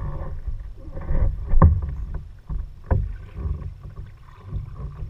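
Kayak paddling: paddle strokes splashing in the water over a low, uneven rumble, with two sharp knocks about a second and a half and three seconds in.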